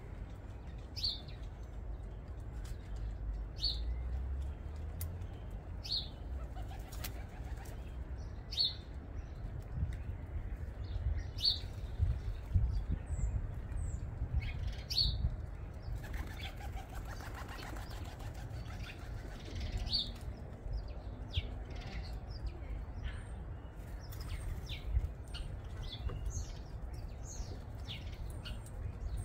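Birds at a suet-ball feeder: wings flap, with scattered clicks, while a short high chirp repeats about every two and a half seconds, over a low steady rumble.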